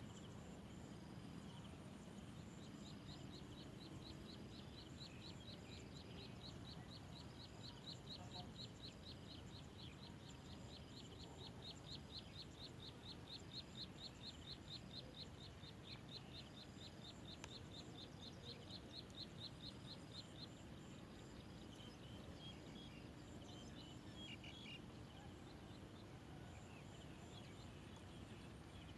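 Faint outdoor ambience with a small bird giving a long, even series of rapid high chirps, several a second, that stops about two-thirds of the way through, followed by a few scattered chirps.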